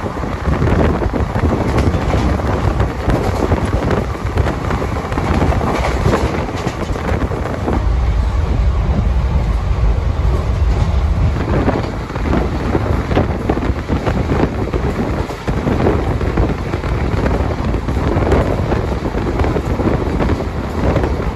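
Indian Railways express passenger train running at about 100 km/h, heard from the open coach door: steady rumble and clatter of the wheels on the rails, with heavy wind buffeting the microphone.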